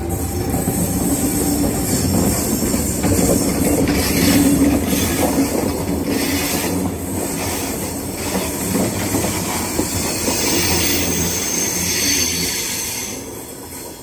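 Sydney Trains Tangara double-deck electric train running along a tightly curved platform, its wheels squealing against the rails on the curve over the rumble and clack of the wheels. It fades away near the end as the last car passes.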